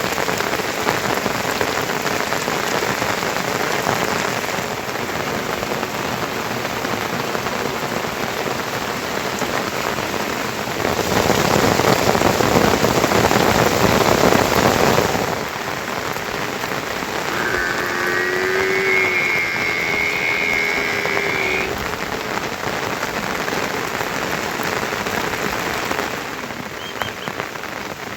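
Heavy rain falling steadily, growing louder for about four seconds partway through. A faint drawn-out call is heard briefly about two-thirds of the way in.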